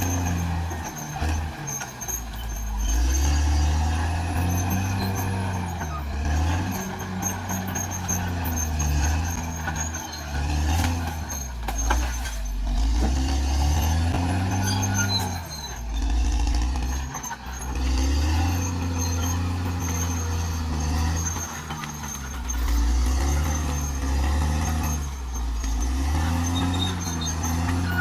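Caterpillar D6R XL bulldozer's diesel engine working, its pitch rising and falling again and again as the load comes on and eases off.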